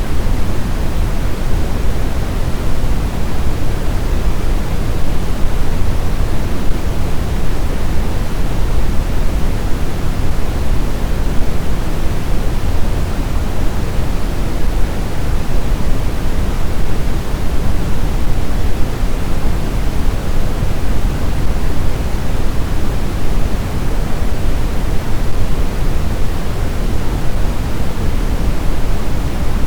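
Steady blizzard wind: an even, deep rushing noise with no whistling tones or gusts.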